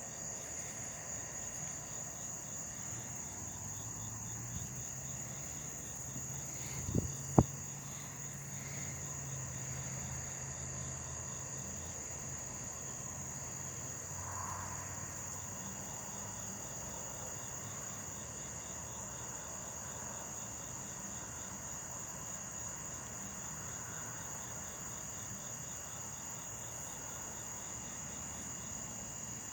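Steady high chorus of insects, with a low drone rising and fading over the first half and two sharp clicks about seven seconds in.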